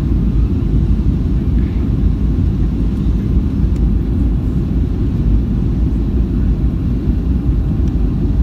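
Steady low cabin rumble of a Boeing 757-200 in flight on final approach, airflow and engine noise heard from inside the passenger cabin with the flaps at full.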